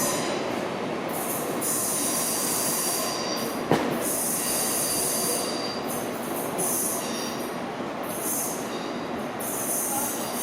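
Train wheels squealing against the rails as a train moves through, the high squeal coming and going several times over a steady rumble, with one sharp clack a little under four seconds in.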